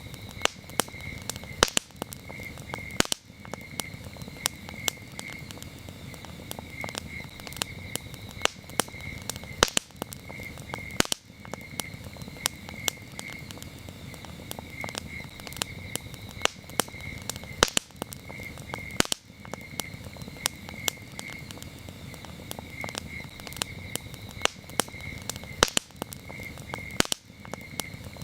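Wood campfire crackling, with frequent sharp pops over a low, steady hiss of burning. Crickets chirp underneath in short, high, pulsing trills that repeat throughout.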